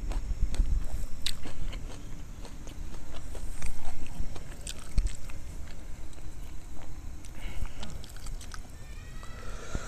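Close-miked eating: egg curry and rice being chewed, with scattered short wet clicks and the loudest stretch about four seconds in. A short pitched call is heard near the end.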